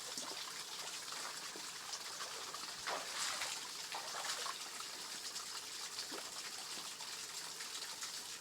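Water running and trickling over a small waterfall, steady, with a louder splash about three seconds in.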